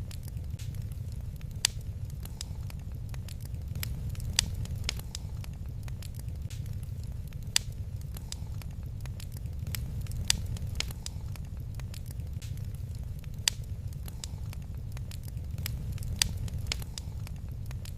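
Wood fire crackling in a fireplace: sharp, irregular pops and snaps, a few much louder than the rest, over a steady low rumble of the flames.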